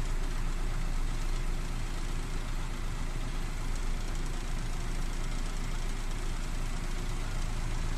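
Vehicle engine running steadily, heard from inside the cabin as an even low hum with hiss.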